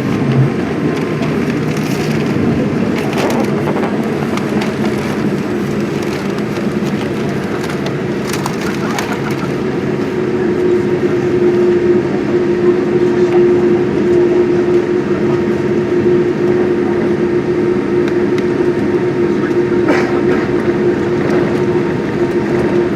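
Cabin noise inside a Boeing 787 Dreamliner taxiing on the ground: a steady engine drone, with a tone that comes in about ten seconds in and a few light rattles.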